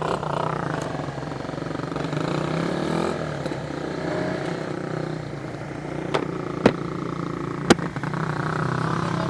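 Honda CBR150R's single-cylinder engine running steadily while riding, with a few short sharp knocks in the second half.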